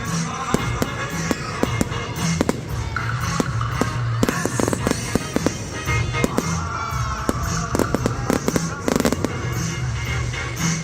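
Fireworks going off in rapid, irregular bursts of sharp cracks and bangs, heavier in the second half, over loud music with a steady beat played for the display.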